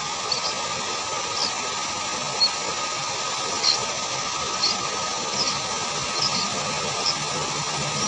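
Short high bird chirps, roughly one a second, over a steady hiss.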